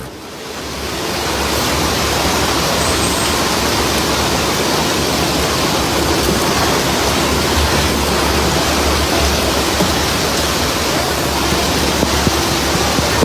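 Steady rushing noise of water from a heavy flash-flood downpour, with a low rumble underneath. It swells up over the first second and then holds steady.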